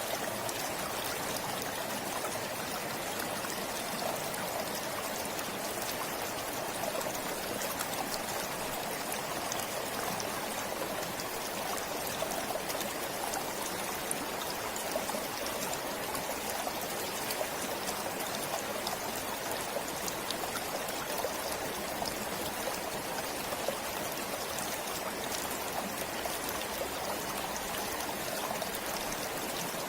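Forest stream flowing steadily over stones, a continuous trickling and babbling of water.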